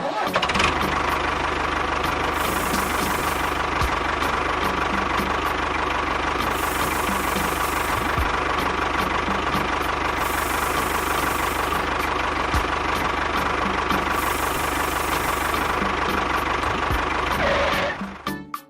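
An engine running steadily at an even speed with a regular knock, cutting off about a second before the end.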